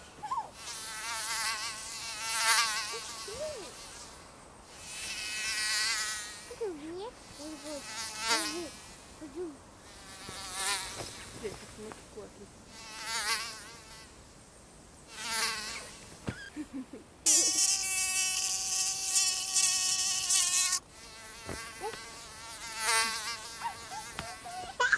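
Mosquito whine, wavering in pitch and swelling and fading every couple of seconds as the insect flies close and away. About two-thirds of the way in, the buzz holds steady at one pitch for a few seconds.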